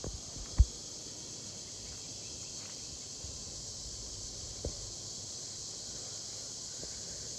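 Steady high-pitched buzzing chorus of cicadas (locusts), with one brief low thump about half a second in.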